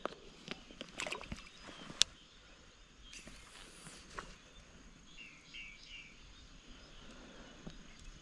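Quiet outdoor ambience with scattered light clicks, the sharpest about two seconds in, and a few faint bird chirps near the middle.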